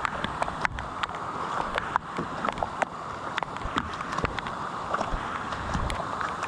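Rain falling on floodwater as a steady hiss, with sharp, irregular taps, several a second, of raindrops striking the camera.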